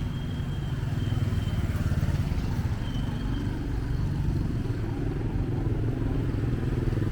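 Street traffic with a motorcycle engine running close by, growing louder toward the end as it nears.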